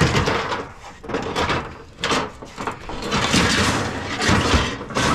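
Pieces of scrap being handled and loaded, scraping and sliding with a few knocks, in several separate bursts.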